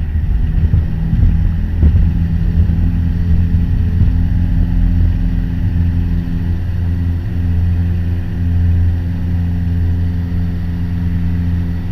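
Piper Warrior's four-cylinder Lycoming engine and propeller running steadily at takeoff power during a touch-and-go climb-out.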